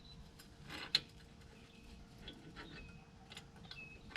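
Faint clicks and light knocks of metal parts being handled, with one sharper click about a second in.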